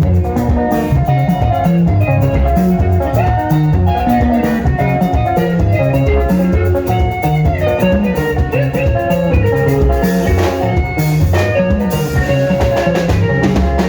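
Instrumental sungura band music: bright, interlocking electric guitar lines over a bass guitar and a steady drum-kit beat, with no singing.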